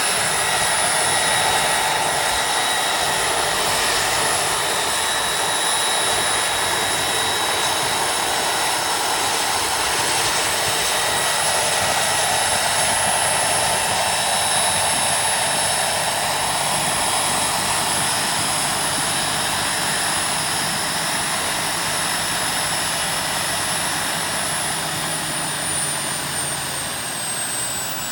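Small gas-turbine engine of a large RC model helicopter running steadily: a rushing noise under a high, steady whine. Near the end the whine begins to drop in pitch.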